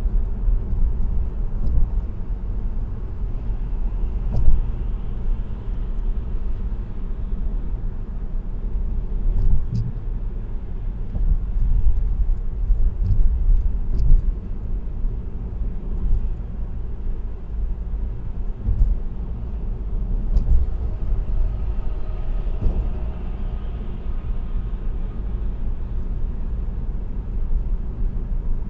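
Steady low rumble and tyre hum of a car cruising on an expressway, heard from inside the cabin, with a few faint clicks.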